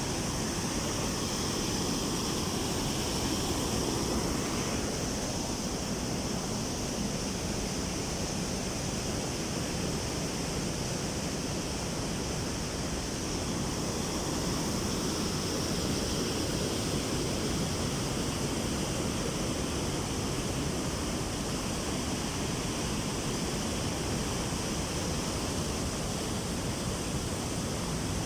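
Water of the New Athos waterfall pouring down, a steady unbroken rush of noise.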